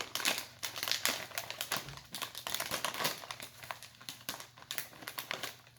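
Rapid crisp crackling and crinkling from a bag of Lay's shrimp and seafood potato chips being handled, a dense run of small clicks.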